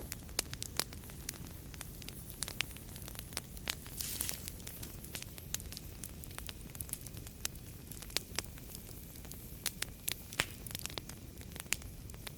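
Wood fire crackling in a fireplace: irregular sharp pops and snaps over a steady low rumble of flames, with a brief hiss about four seconds in.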